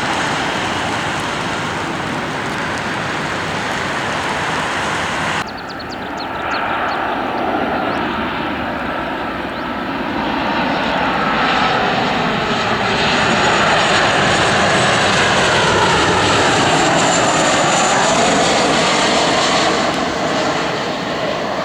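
Airliner engines passing close by. An abrupt cut about five seconds in gives way to a whining engine sound that slowly falls in pitch as it builds louder, then drops away near the end.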